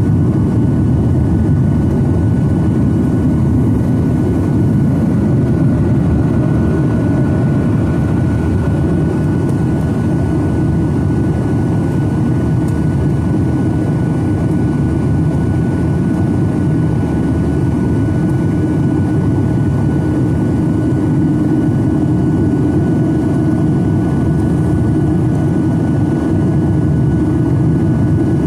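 Steady jet engine and airflow noise heard inside the cabin of a Boeing 737-900ER with CFM56-7B turbofans: a loud, even low rumble with a faint high steady whine over it.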